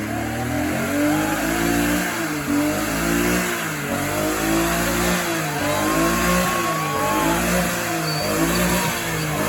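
Vehicle engine revved hard up and down over and over, roughly once a second, as in a burnout.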